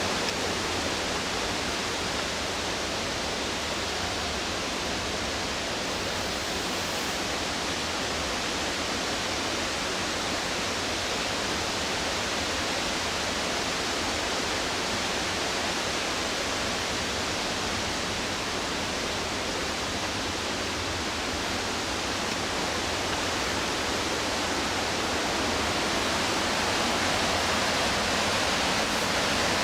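Steady rush of the McKenzie River's whitewater, growing a little louder near the end.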